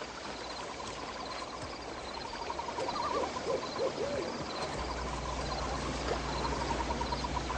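An owl hooting a few times over a fast, even chirping, a night-time ambience. A low steady hum comes in about five seconds in.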